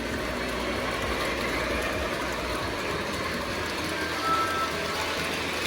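Lionel O-gauge model trains running on the layout's track, a steady rolling rumble of wheels on rail, with a few faint short tones about four seconds in.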